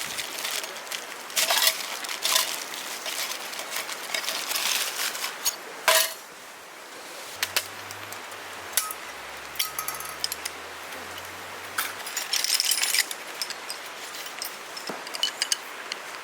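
Irregular light clicks, clinks and rustles of gear being handled, with a longer rustle about three-quarters of the way through.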